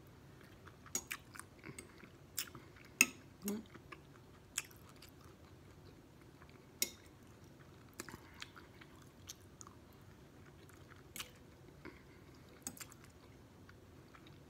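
Close-miked chewing of soft food, with scattered wet mouth clicks and smacks, the sharpest about three seconds in.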